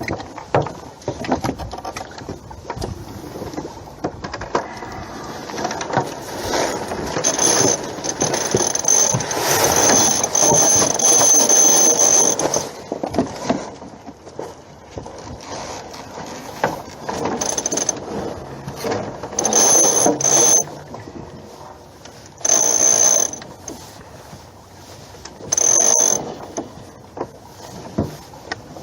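Sailboat sheet winch being cranked, its pawls clicking rapidly in several spells: a long, loud spell about a third of the way in, then shorter bursts toward the end.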